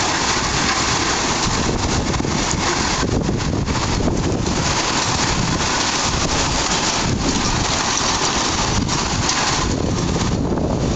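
Strong gusting wind buffeting the microphone, with heavy wind-driven rain; the noise is loud and swells and eases with the gusts.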